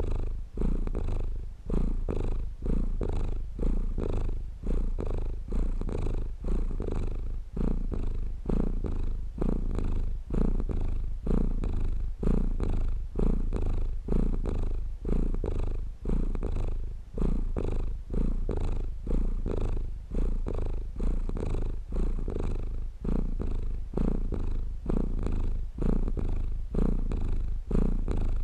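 A domestic cat purring close up: a low, steady rumble that swells and dips evenly with each breath, about once a second.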